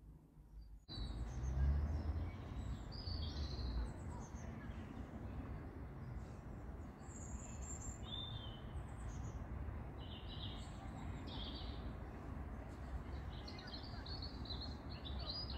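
Garden birds chirping and singing in short, scattered high phrases over a steady low outdoor rumble, starting about a second in.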